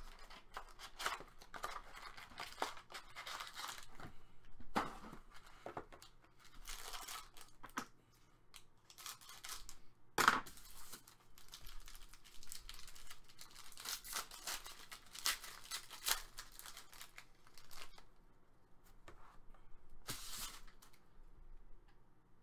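Trading-card pack wrappers being torn open and crinkled, in irregular bursts of tearing and rustling, the loudest rip about ten seconds in.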